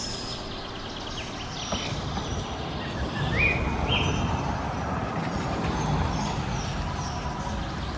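Birds chirping in short calls and quick rising notes over a steady low outdoor rumble.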